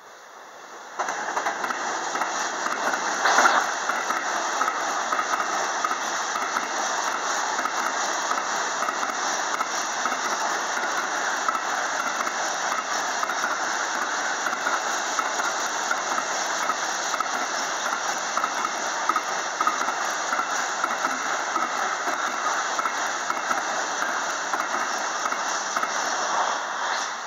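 Train passing close by at speed: a steady rush of wheel-on-rail noise, with a brief louder surge about three and a half seconds in.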